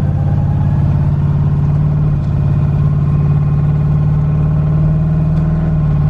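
LS V8 of a twin-turbo Fox-body Mustang running at low revs as the car drives along, a steady loud drone through an exhaust with no mufflers fitted.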